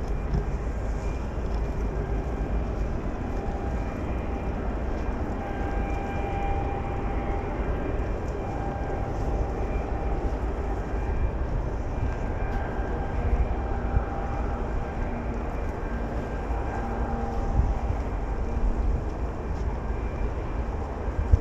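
Open-air countryside ambience: a steady low rumble with faint wavering tones over it.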